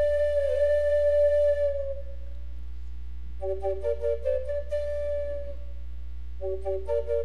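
Solo flute playing. A long held note with small dips in pitch fades out about two seconds in. After a pause, a short run of notes settles onto a held note, and near the end another run begins.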